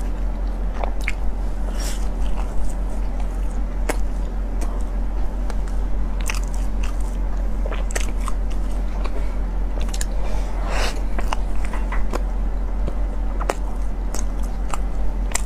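Close-miked biting and chewing of a soft pork floss bread roll, with many short sharp mouth clicks over a steady low hum.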